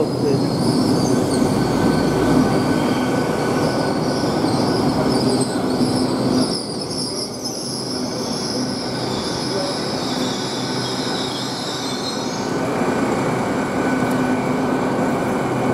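GWR Class 800 bi-mode train at the platform running on its underfloor diesel engines, with a high-pitched squeal over the engine noise that dies away about twelve seconds in.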